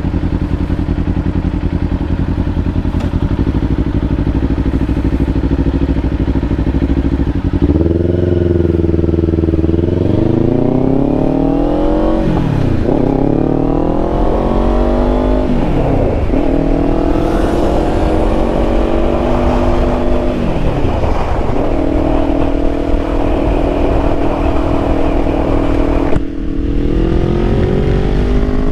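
Kawasaki Ninja 500's parallel-twin engine running steadily, then accelerating from about a quarter of the way in, its revs climbing and dropping sharply at three upshifts before settling into a steady cruise. There is one more shift near the end.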